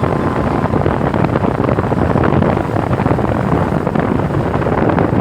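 Wind blowing hard across the microphone, a steady low rumbling buffet.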